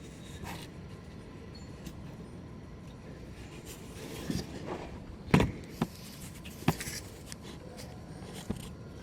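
Scattered light clicks and knocks of hand tools and small parts being handled, with faint rubbing between them. The sharpest knocks come a little past the middle.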